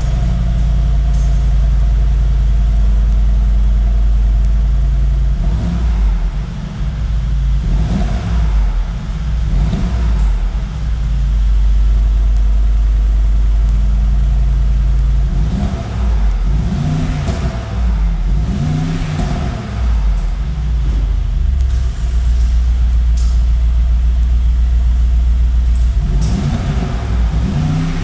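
Mercedes-AMG G63's 4.0-litre twin-turbo V8 running just after a cold start, with a steady idle rumble. The throttle is blipped about six times, each rev rising and falling in pitch.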